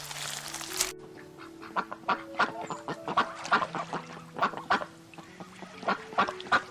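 Birds calling in a quick run of short, overlapping calls over background music with sustained notes. A hissing, rushing noise stops about a second in.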